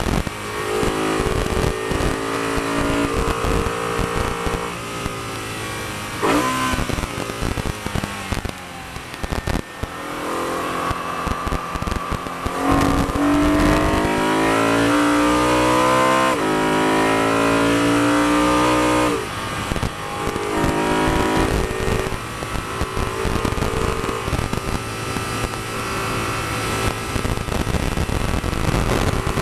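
BMW E92 M3's V8 engine heard from inside the car under hard track driving, its note climbing and dropping with dual-clutch gear changes. A pitch swoop comes about six seconds in, and the loudest stretch is a long pull from about 13 to 19 seconds in that ends abruptly.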